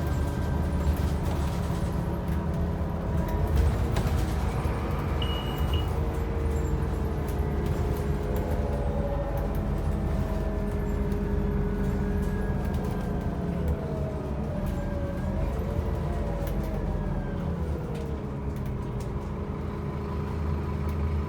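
Scania N270UB OmniCity bus running, with a steady low engine drone and several whining tones that rise and fall in pitch partway through.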